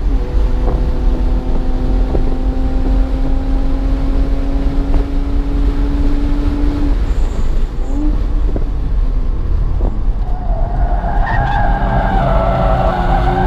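BMW 1 Series engine pulling on track, its pitch climbing steadily for several seconds before the driver lifts off. From about ten seconds in, the tires squeal as the car slides through a corner.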